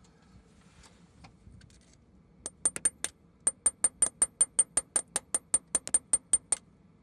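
Rapid light hammer taps on a tool in a hole drilled through a Cummins 2.8 cylinder-head core plug, widening the hole. Each tap rings metallically. They start a couple of seconds in and run at about five a second.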